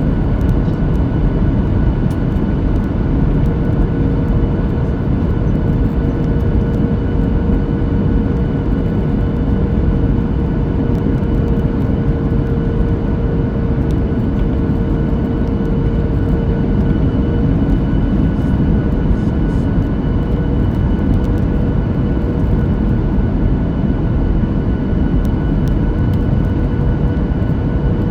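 Steady cabin noise of a Boeing 737-9 MAX airliner in flight: an even rush of airflow and CFM LEAP-1B engine noise with a faint steady hum running through it.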